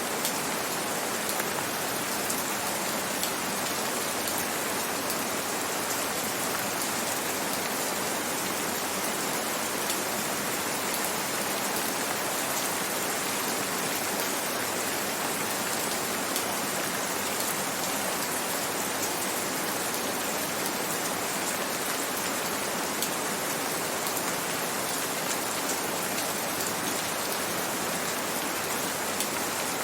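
Steady gentle rain falling, an even hiss of rainfall with fine scattered drop patter.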